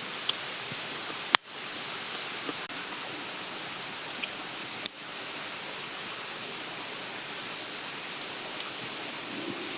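Campfire burning with a steady hiss and crackle, with two sharp pops from the burning wood: a loud one over a second in and a smaller one near the middle.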